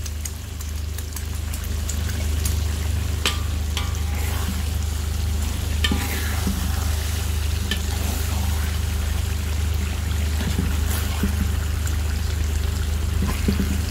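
Fish curry sizzling steadily in hot oil in a metal wok, with a spatula now and then scraping and clicking against the pan. A steady low hum runs underneath.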